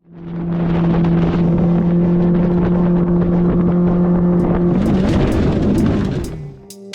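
Motorboat engine running at a steady speed with a loud rush of wind and water; about five seconds in the engine note wavers and drops as the noise dies away. Music comes in near the end.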